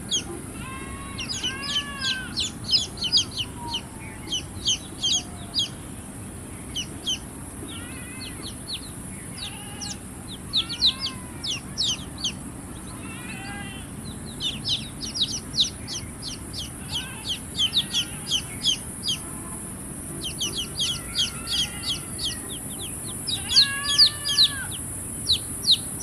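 Baby chicks peeping in rapid runs of short, high, downward-slurred peeps from several birds at once, with a few lower, softer calls mixed in.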